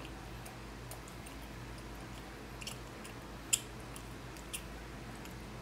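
Chewing roast chicken, with a few scattered short wet mouth clicks and smacks, the sharpest about three and a half seconds in, over a steady low hum.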